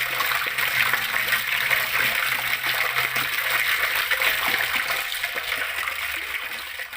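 Flowing water splashing and trickling steadily, starting to fade out near the end.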